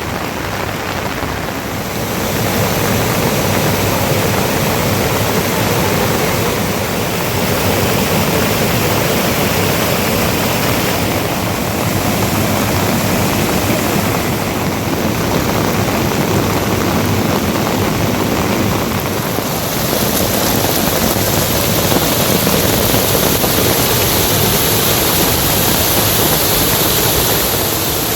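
Heavy rain falling steadily, a dense even hiss that grows a little louder about two seconds in.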